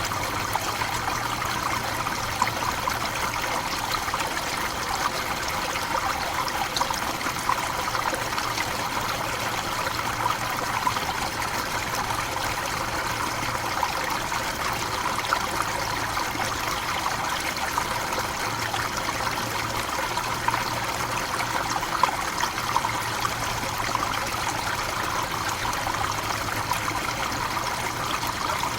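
Forest waterfall running steadily: a constant rush of falling and splashing water, with small splashes standing out here and there.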